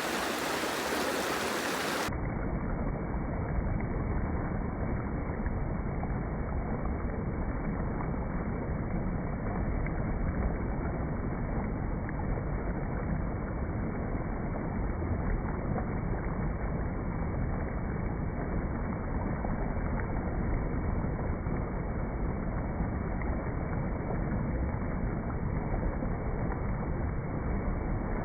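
A steady full-range rushing hiss cuts off abruptly about two seconds in. It is replaced by a steady, muffled low rumbling noise with no treble.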